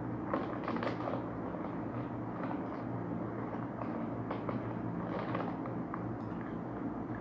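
Scattered short crackles and clicks from crunchy corn snacks being eaten and handled, over a steady low electrical hum.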